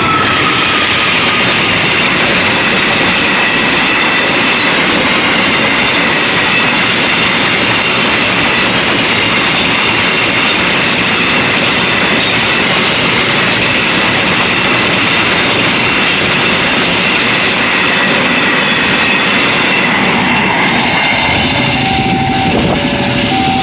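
A train passing through the station at speed: a loud, steady rush of wheels on rail with high squealing tones. Near the end the level crossing's two-tone warning alarm is heard again.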